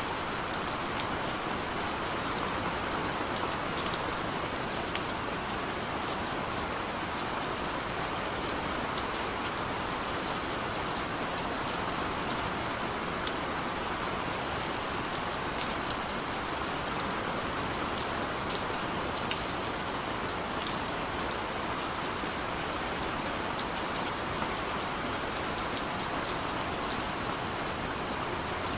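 Steady rain falling, a continuous patter with scattered sharper drop ticks.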